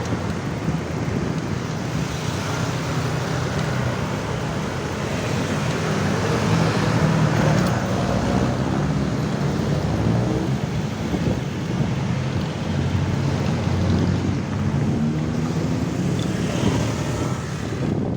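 Road traffic noise: motor vehicle engines running close by, a steady low engine hum with pitch wavering up and down around the middle.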